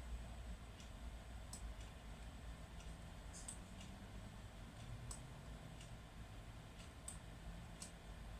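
Faint, scattered clicks of a computer mouse, about half a dozen at irregular intervals, over a steady low hum.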